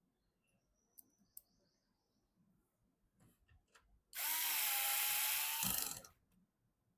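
Small electric screwdriver running for about two seconds, its motor whine rising briefly and then holding steady before it stops, after a few light clicks of handled parts.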